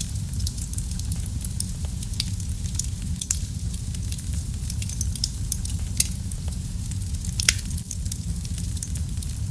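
Fireplace fire burning, with a steady low rumble under frequent sharp crackles and pops; two louder pops stand out, about six and seven and a half seconds in.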